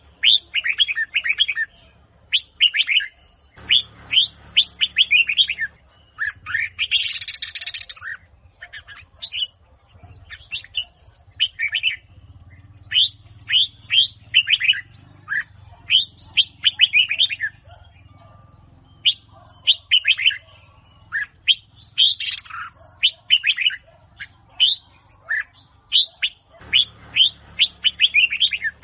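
Red-whiskered bulbul singing: quick phrases of bright chirping notes, one after another with short pauses between them.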